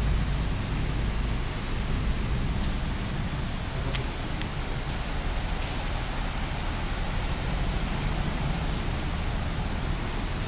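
Heavy rain pouring down steadily during a thunderstorm, a dense even hiss with a low rumble underneath.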